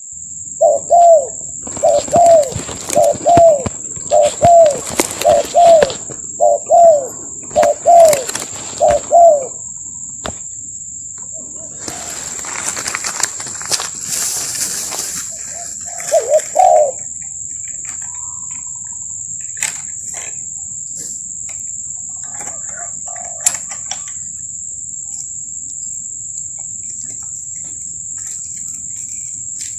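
Spotted doves cooing: about eight short, arched low coo phrases in the first ten seconds, then one more pair about sixteen seconds in. Under them runs a steady high-pitched insect buzz, and there is a brief rustling noise around twelve to fifteen seconds.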